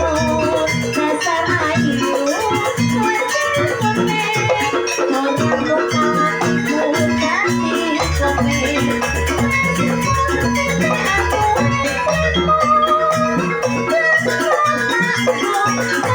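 Live jaranan ensemble music: struck bronze keyed instruments and drums play a dense, rhythmic piece. Heavier low strokes join in about halfway through.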